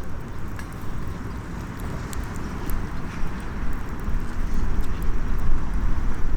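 Small wood fire crackling in a compact metal fire stand, with scattered sharp pops and ticks over a steady low rumble.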